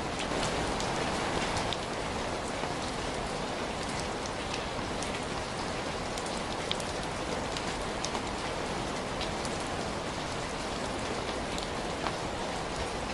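Steady rain falling on a surface, a dense even hiss with scattered sharp drop ticks.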